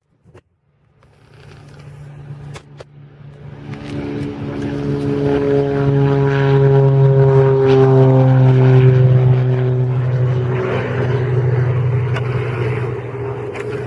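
Boeing 747 jet engines passing close by: the sound builds from about a second in, peaks around the middle, and its tones slide down in pitch as the aircraft goes past, then slowly fade.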